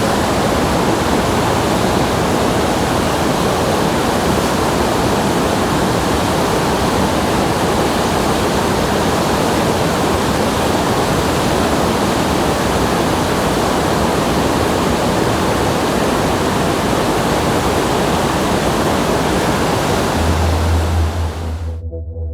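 Waterfall running in full spate, swollen by a day of heavy rain: a loud, steady rush of water. About twenty seconds in, a low music note comes in, and the water sound cuts off just before the end.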